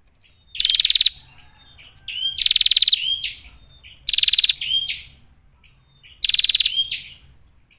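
Female prenjak (prinia) calling: four rapid, buzzy rattling trills, each about half a second long and spaced roughly two seconds apart, with short rising chip notes around them.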